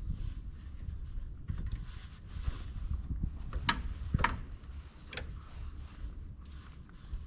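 Handling noise from working a stiff, cold wiring plug onto an LED headlight bulb's prongs, with a few sharp plastic clicks between about three and a half and five seconds in, over a low rumble.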